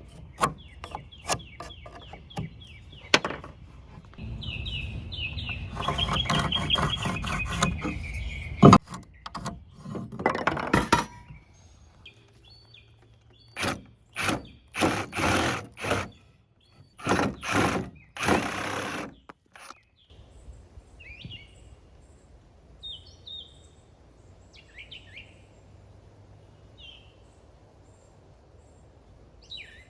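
Hand work on the wooden frame of an old truck camper: a run of clicks, a sharp knock, and a series of harsh strokes on wood. Birds chirp in the quieter last third.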